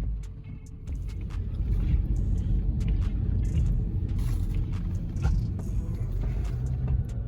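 Low road rumble of a car being driven, heard from inside the cabin, growing louder about a second in.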